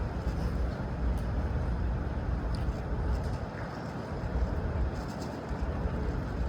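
Steady low rumble that swells and eases slightly, with no speech.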